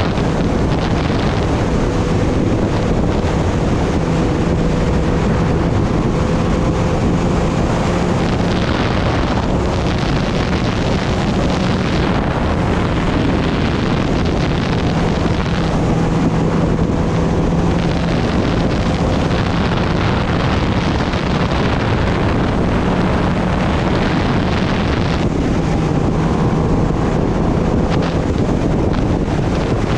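Heavy wind rush on the microphone over the steady hum of a Kawasaki Ninja ZX-10R's inline-four engine, held at a fairly constant speed while riding.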